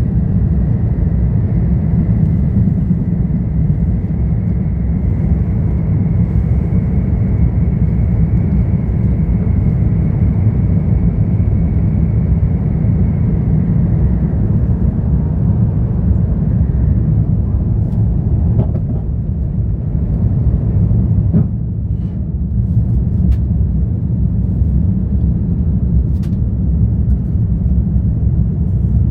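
Airbus A350-1000's Rolls-Royce Trent XWB engines at takeoff thrust with a heavy, steady low rumble. A high whine over the rumble fades out about halfway through, and a few brief knocks come near the end.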